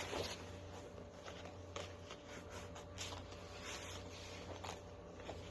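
Faint handling noise: a few soft scattered clicks and rustles over a steady low hum.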